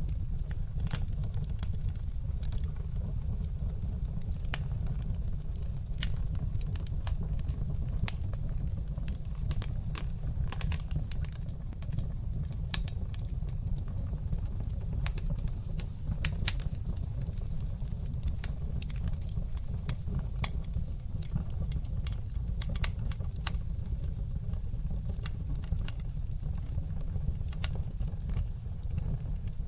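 Fire burning in a fireplace: a steady low rumble of flames with frequent, irregular sharp crackles and pops, a few of them louder.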